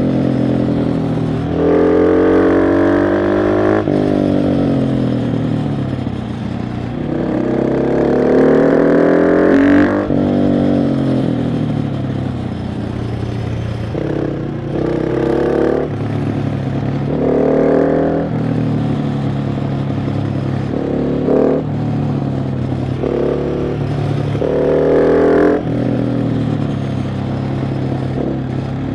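KTM 690 SMC R's single-cylinder engine under way, repeatedly revving up under throttle and falling back. Its pitch climbs and drops sharply about 4 and 10 seconds in, with shorter surges later on.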